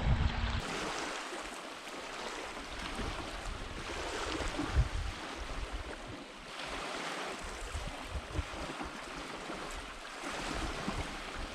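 Small waves washing on the shore, swelling and fading every few seconds, with wind gusting across the microphone.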